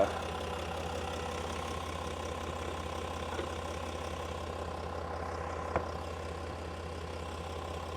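Land Rover Lion V6 turbodiesel engine idling steadily, with a single sharp click about six seconds in.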